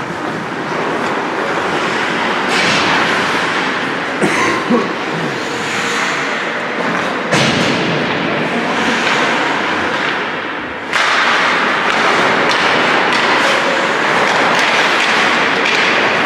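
Ice hockey rink game noise: a steady scraping hiss of skates on the ice, with a few sharp knocks of sticks and puck a few seconds in, and the noise growing louder near two-thirds of the way through.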